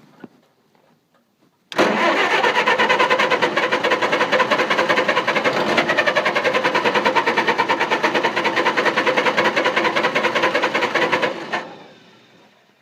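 Engine cranking on its starter for about ten seconds, a fast even chugging of about seven beats a second, without catching; then the starter cuts off and the engine spins down. A no-start.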